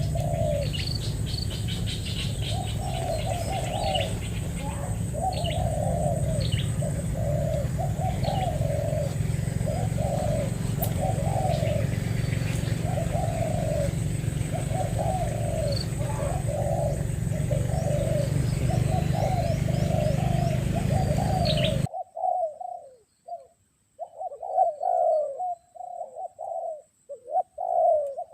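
Spotted doves cooing over and over in quick repeated phrases, with faint high chirps of small birds behind them. A steady low hum underneath cuts off abruptly about three quarters of the way through, while the cooing carries on.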